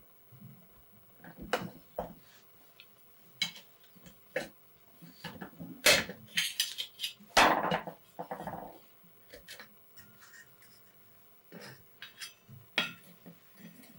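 Metal tools and pedal-car parts clinking and knocking at an irregular pace, with louder clanks about six and seven and a half seconds in, the second followed by a brief scrape.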